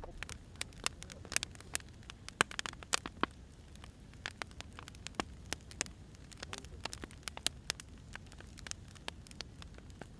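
Burning firewood crackling, with irregular sharp pops, several a second, over a low steady rumble.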